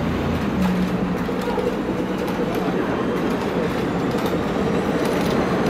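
Schynige Platte Bahn He 2/2 electric rack locomotive running with its train: a steady mechanical rattle and rumble from the running gear, with a low motor hum that fades about a second in.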